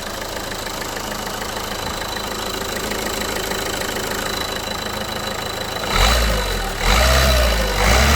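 Renault Clio 1.5 dCi four-cylinder turbodiesel engine idling steadily, then revved twice in short blips starting about six seconds in. The revving is a test for a strange engine noise, which the mechanic traces to a punctured crankcase breather membrane.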